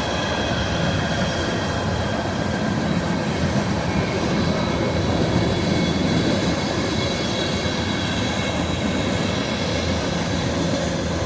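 Freight train cars rolling past at trackside: a steady rumble of steel wheels on rail, with faint thin high squeals above it.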